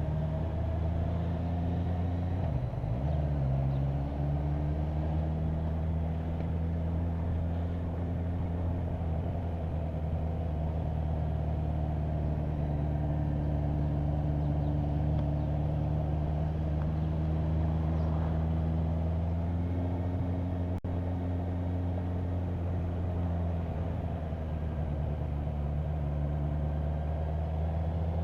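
Motorcycle engine running steadily at road speed, with a brief dip and recovery in pitch about three seconds in.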